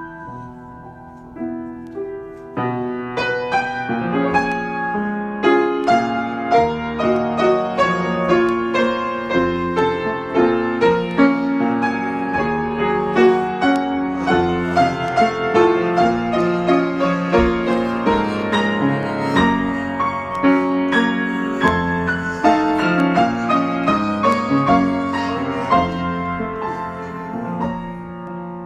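Solo piano improvising: a few held notes at first, then from about three seconds in a steady flow of struck notes and chords across the keyboard, easing off near the end.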